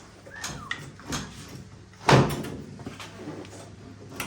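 Knocks and clunks from a car's front suspension strut being levered out of the wheel well, with one loud bang about two seconds in.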